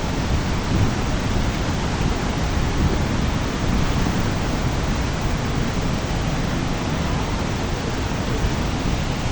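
The Rhine Falls, a large waterfall, giving a steady, deep rush of falling water, even and unbroken throughout.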